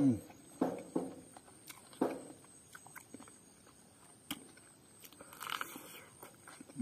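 A man chewing and smacking a mouthful of rice and pork curry, with small wet clicks of lips and tongue. A short low hum of 'mm' right at the start and another near the end.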